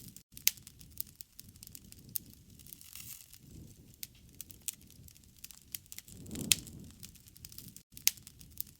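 Wood campfire crackling, with irregular sharp pops over a soft low rush of flame. The low rush swells about six and a half seconds in, together with the loudest pop.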